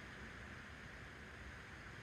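Steady low hiss and hum from a VHS tape's otherwise silent soundtrack.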